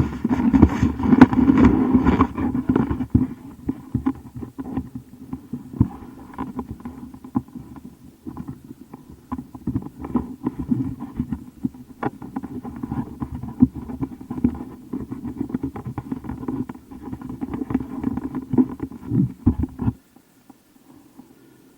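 Dirt bike engine running on a trail ride, its level rising and falling unevenly with the throttle, loudest in the first few seconds; it cuts off suddenly near the end.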